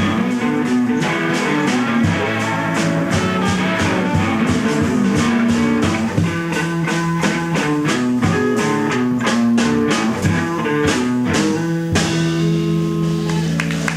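Electric blues band playing live, electric guitars over a drum kit, then holding a ringing final chord from about twelve seconds in.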